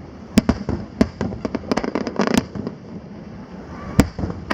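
Aerial fireworks bursting: a rapid run of sharp bangs and crackles over the first couple of seconds, then a single loud bang about four seconds in.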